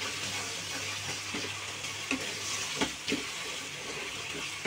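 Raw papaya halwa sizzling in a nonstick kadai while a wooden spatula stirs it, with a few sharp scrapes and taps of the spatula against the pan about two to three seconds in. The sugar syrup in the halwa is cooking off.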